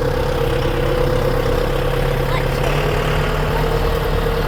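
Tractor engine running steadily, its note rising slightly about two and a half seconds in.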